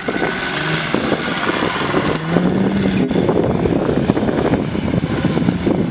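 Jeep Grand Cherokee engine revving up as the SUV drives through loose sand and up a dune. The engine pitch rises over the first few seconds, then holds under a rough rush of noise, with wind on the microphone.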